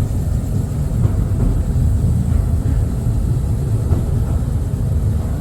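Mail Rail's small electric narrow-gauge train running through its tunnel: a steady low rumble.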